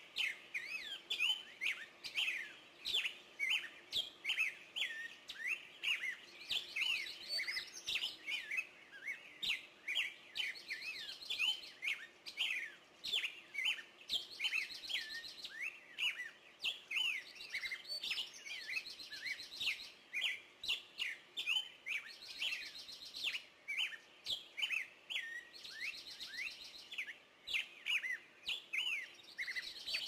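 Several songbirds chirping and singing together in quick sweeping notes, with a buzzy trill from one bird repeating about every four seconds.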